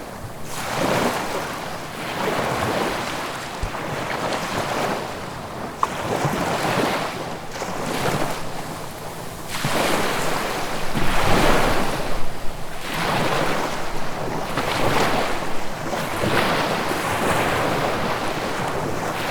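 Ocean waves breaking and washing ashore, one surge after another every couple of seconds, loudest about halfway through.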